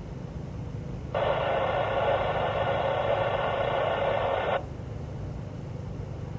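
A burst from a two-way radio or loudspeaker channel, about three and a half seconds long, hissing with a few steady tones, cutting in and out abruptly. A steady low rumble runs underneath.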